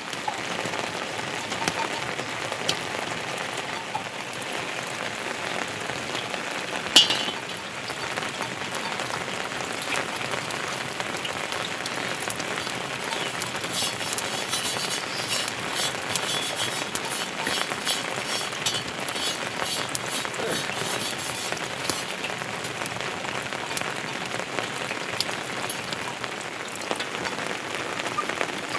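Heavy monsoon rain falling steadily, a dense hiss with many small drop ticks. One sharp knock about 7 seconds in is the loudest moment.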